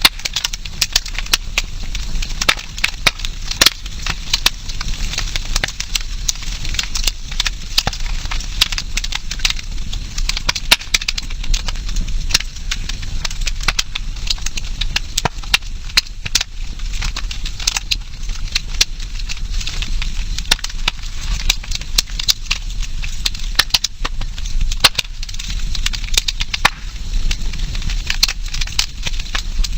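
Campfire crackling: burning wood giving frequent, irregular sharp pops and snaps over a steady background hiss.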